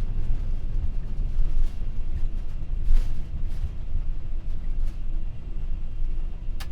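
Deep, steady rumble inside an MD-11F cockpit during the landing rollout, the freighter decelerating on the runway after touchdown, with a few faint clicks.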